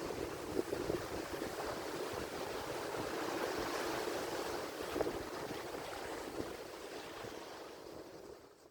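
Ocean surf washing ashore, with a wave swelling about halfway through, then fading out to silence at the end.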